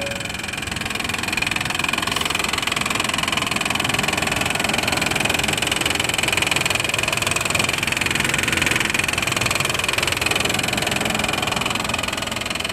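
1995 Honda Passport's Isuzu-built 3.2 V6 idling with a steady racket of fast, even ticking. The owner first took it for an exhaust leak but fears it is worse, such as lifter tick.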